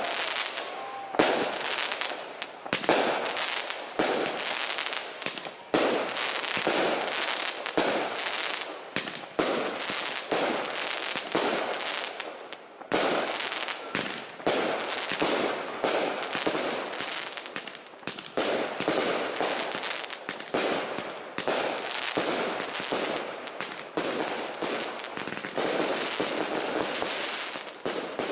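Professional large-calibre aerial firework shells going off in a dense, continuous run of bangs, one or more every second, each fading quickly into the next.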